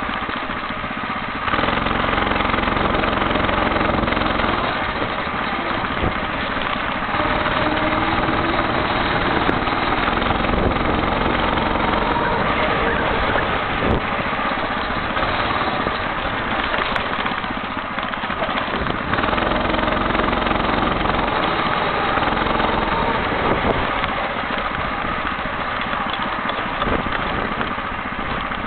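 Homemade motorcycle engine running on the move. It gets louder about a second and a half in, then rises and falls with the throttle.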